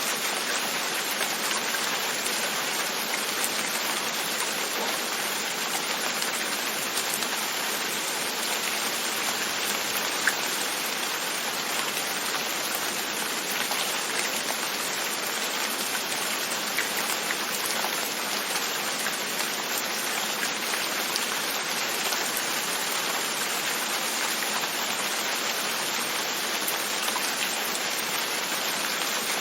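Steady rain pattering on a window, with scattered individual drop taps, one a little sharper about ten seconds in.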